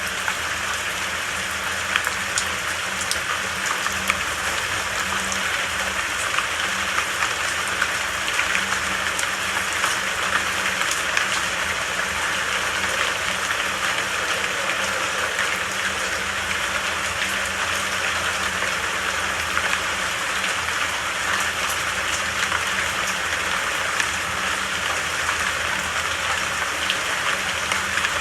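Steady rain falling in an even hiss, with scattered faint drop ticks.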